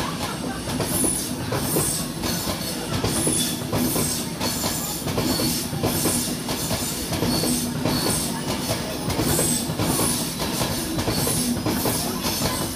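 Class 91-hauled electric express train on the move, its wheels clicking over rail joints about twice a second in a steady rhythm over a steady hum.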